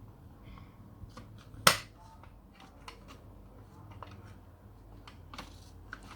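Small plastic Lego pieces clicking and tapping as they are handled and fitted, with one sharp, louder click about a second and a half in.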